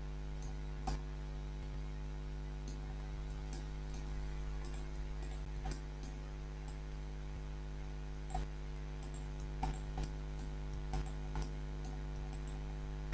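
A steady low electrical hum runs under scattered, irregular clicks of a computer mouse and keyboard.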